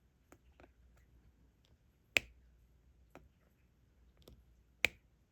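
A diamond-painting stylus tapping diamond drills onto the canvas one at a time: two sharp clicks about two and a half seconds apart, with fainter ticks between.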